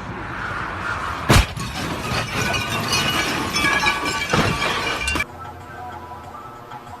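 Car crash: a hard impact about a second in, then breaking glass and clattering debris with a second heavy hit around four seconds. The sound cuts off suddenly a little after five seconds into quiet background music.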